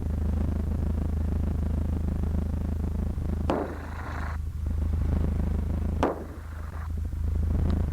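Cessna 152's four-cylinder Lycoming engine droning steadily in the cruise, heard through the cockpit intercom. It is broken twice, about three and a half and six seconds in, by a short click and a burst of hiss from the radio.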